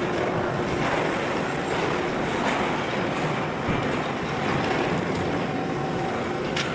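Heavy car-dismantling machinery running, a steady dense mechanical noise with a few faint clicks.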